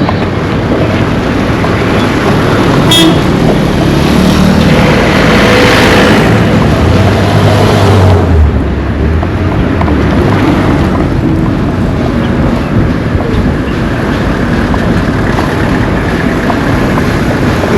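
Loud, steady road noise from a moving vehicle, with a horn sounding briefly about four to six seconds in.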